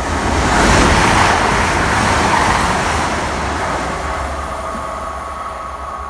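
Class 222 Meridian diesel multiple unit passing through the station at high speed: a loud rush of wheels and air that peaks about a second in, then slowly fades as the train moves away.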